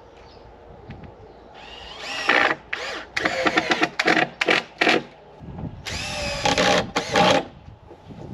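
Power drill run in a series of short trigger bursts, its motor whine climbing in pitch as it spins up and cutting off between bursts.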